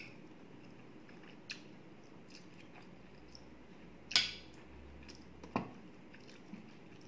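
A person chewing a mouthful of rice and sardines, with a few sharp clinks of a metal spoon and fork against a plate. The loudest clink comes about four seconds in.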